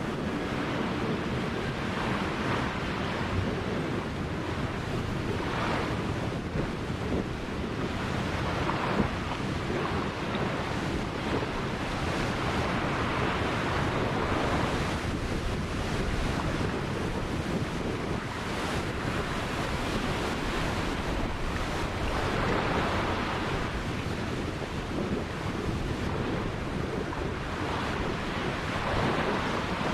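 Ocean surf breaking and washing on a beach in a continuous rush that swells every few seconds as waves come in, with wind buffeting the microphone.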